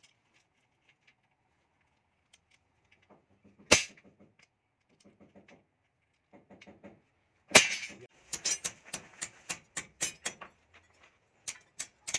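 Two sharp knocks a few seconds apart, the second the loudest, then a quick run of light taps at about five a second: a hard tool striking during the masonry work.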